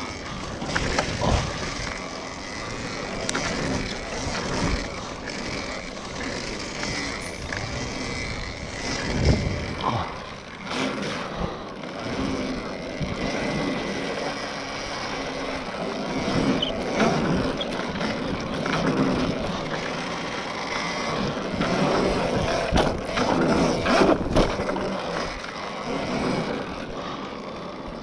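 Electric dirt bike ridden round a pump track: motor whine and tyre noise rising and falling, with occasional knocks.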